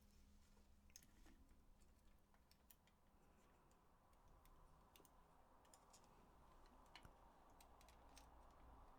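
Near silence with scattered faint clicks and ticks of small plastic controller parts being handled and fitted.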